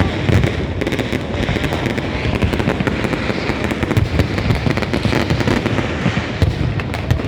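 Fireworks going off in a dense, continuous barrage: many overlapping bangs and crackles with no pause between them.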